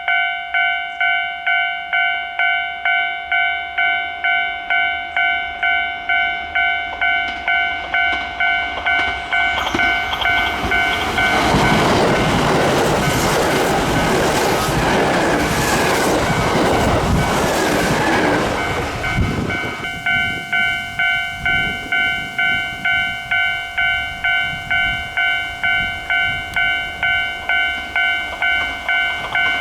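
Japanese railway level-crossing warning bell dinging about twice a second. About ten seconds in, a Kintetsu train passes for about eight seconds and its running noise drowns the bell. The bell keeps ringing after the train has gone.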